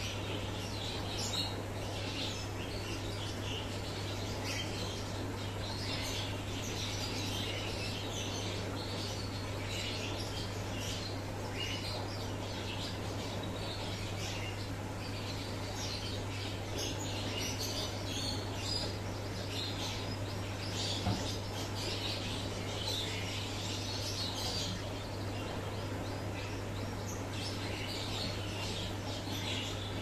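Many small birds chirping continuously, short high calls overlapping one another, over a steady low hum.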